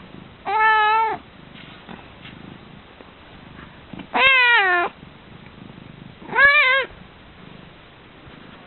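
Domestic cat meowing three times, each a short grunt-like groggy meow rather than a full yowl, the last one the shortest.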